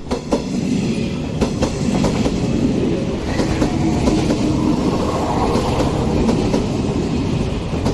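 Yakumo limited express electric train rolling past on the rails with a steady rumble, its wheels clacking over rail joints a few times in the first couple of seconds.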